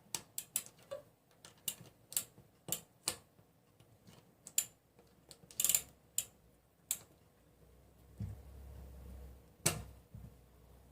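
Irregular sharp metal clicks and taps as a BMX hub is worked and pried apart with a washer wedged between its parts, to pop the part out. A brief low rumble comes near the end, followed by one louder click.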